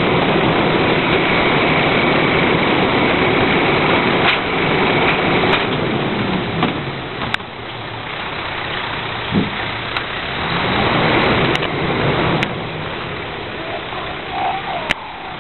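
Heil 5000 rear-loader garbage truck running close by, with a steady high whine for the first few seconds and scattered clanks. The engine drops off about seven seconds in, then revs up again around ten seconds in.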